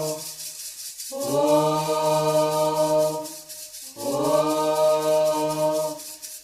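Chanted singing of a Candomblé song for Xangô: a voice holds two long drawn-out notes, each lasting about two seconds, with short breaks between them.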